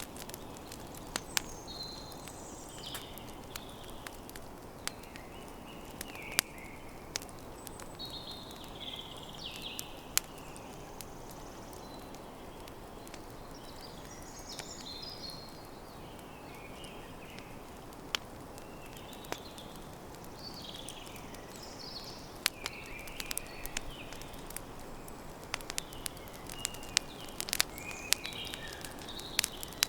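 Campfire crackling: scattered sharp pops over a steady low hiss, the pops coming thicker near the end. Small birds chirp and call throughout.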